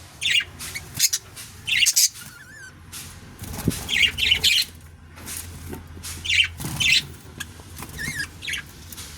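Budgerigars chirping and squawking: a string of short, sharp calls every half second to a second, with a brief warbling trill among them, over a faint steady low hum.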